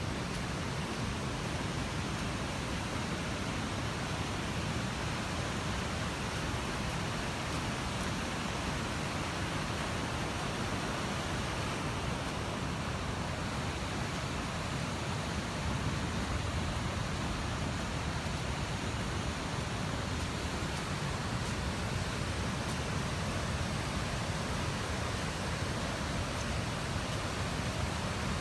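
Steady, even rushing noise with no breaks or rhythm.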